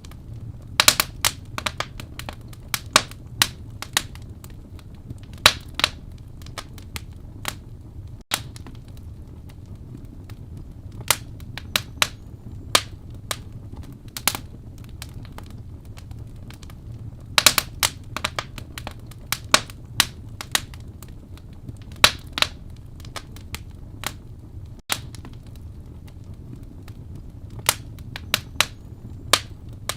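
Wood fire burning in a fireplace, crackling: irregular sharp pops and snaps, some bunched in quick clusters, over a steady low rumble.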